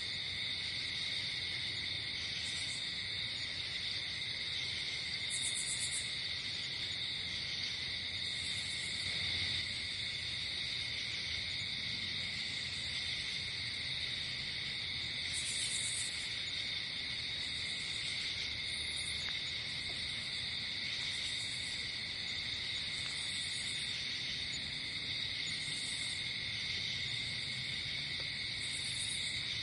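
Night insect chorus: crickets trilling steadily and high, with a still higher buzz from another insect coming in short bursts every two to three seconds.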